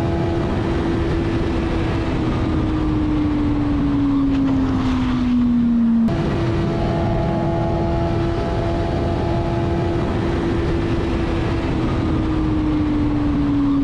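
Motorcycle engine running with a steady drone over rushing wind noise, its pitch holding and then slowly falling as the bike eases off. The sound cuts off abruptly about six seconds in and the same passage plays again.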